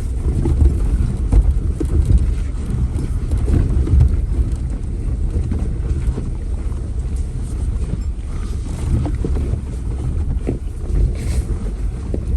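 Off-road vehicle rumbling at low speed while easing a disabled Jeep down a trail on a recovery rope, with wind on the microphone and scattered knocks and bumps.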